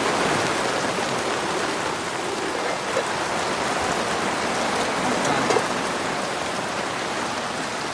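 Heavy rain falling steadily, with scattered drops ticking.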